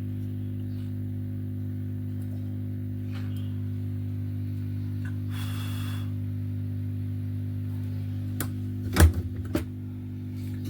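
Steady electrical hum with evenly spaced overtones, with a short hiss about five and a half seconds in and a few sharp clicks near the end, the loudest about nine seconds in.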